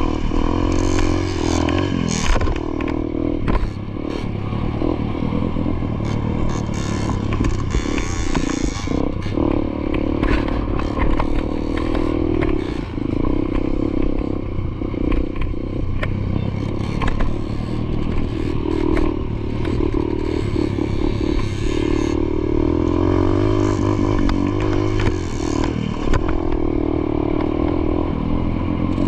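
Dirt bike engine running and being ridden, its revs rising and falling, with frequent clattering knocks throughout.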